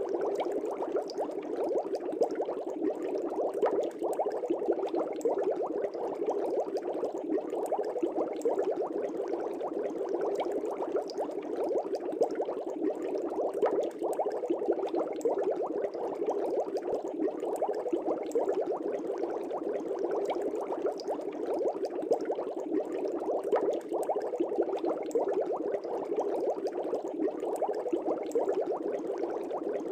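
Air bubbles rising and breaking at the surface of an aquarium, a steady dense bubbling.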